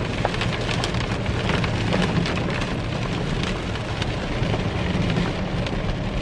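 Heavy rain falling on a car, heard from inside the cabin: many separate drops tick sharply over a steady rain hiss and a low rumble from the vehicle.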